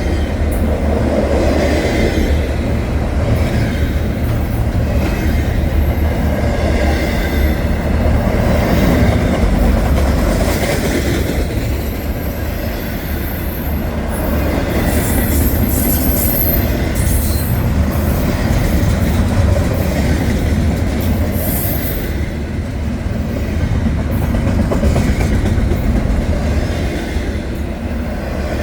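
Freight train rolling by, its cars rumbling steadily on the rails, with brief high-pitched wheel squeals in the middle stretch.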